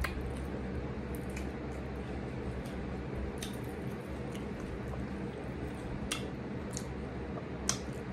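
Close-up mouth sounds of eating a soft-shell shrimp taco: wet chewing with sharp lip smacks a few times, the loudest near the start and near the end. A steady low hum runs underneath.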